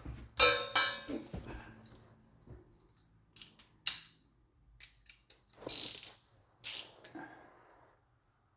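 Steel hand tools clanking and clicking: socket extension bars being handled and snapped together. Two loud ringing clanks in the first second, then scattered clicks and a couple of short metallic scrapes.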